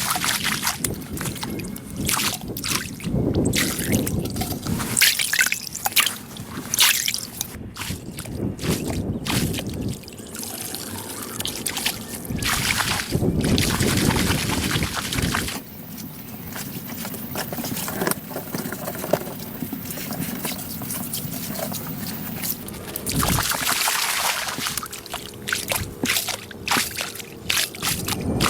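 Water sloshing and trickling, with many scattered knocks and scrapes and swells of splashing noise.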